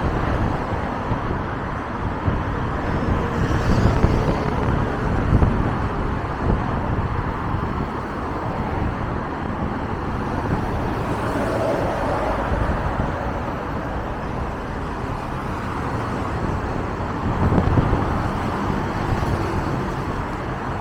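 Scania Irizar i4 Hybrid city bus driving, with a steady low rumble and road noise and no sharp events.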